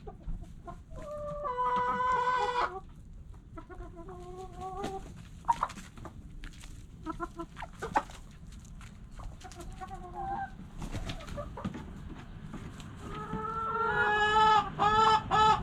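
Backyard chickens clucking and calling in separate bursts. Near the end a run of quick, louder repeated calls builds up.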